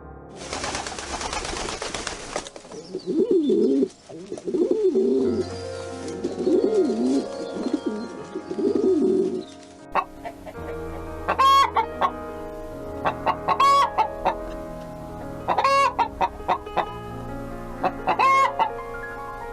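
Low wavering bird calls, then, from about ten seconds in, a chicken clucking in short repeated calls, over background music.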